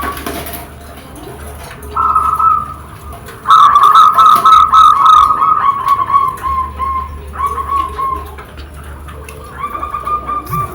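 Zebra dove (perkutut) cooing in rapid, pulsing phrases, several bouts with short gaps, loudest from about three and a half seconds in.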